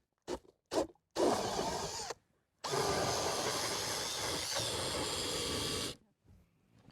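A small motor-driven device, like a power tool, runs in two spells: about a second, then a steady run of about three seconds. Each stops abruptly, and two short bursts of noise come just before them.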